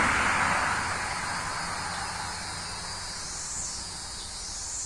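Insects droning, with rising high calls repeating about once a second from the middle on. A hiss at the start fades away over the first second or so.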